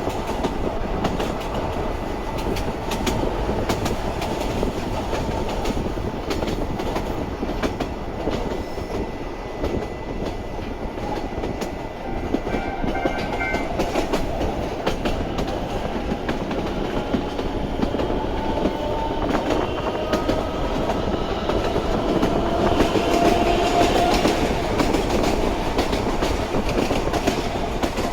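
Narrow-gauge electric train with nose-suspended traction motors running on the rails, wheels clicking over the joints. In the second half a motor whine rises in pitch as it picks up speed.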